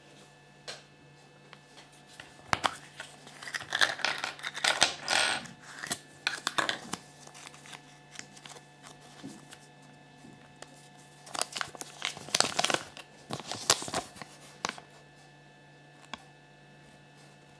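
Kinder Surprise packaging being crinkled and torn open by hand, with sharp crackles and clicks, in two bouts of a few seconds each.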